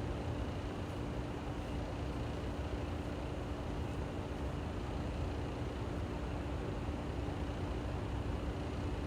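Steady, even rushing noise of a waterfall mixed with road traffic, with a steady low hum running under it.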